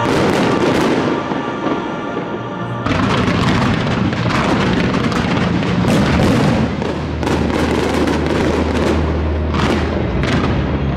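Aerial fireworks bursting in quick succession, a dense run of sharp bangs and booms with many overlapping. Music plays underneath throughout.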